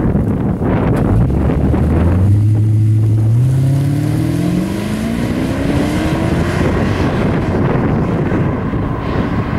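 Lexus SC400's 1UZ-FE V8 exhaust through aftermarket 'Top Speed' mufflers, accelerating in a take-off: the engine note climbs steadily in pitch for about five seconds, then gives way to a rushing noise with wind on the microphone.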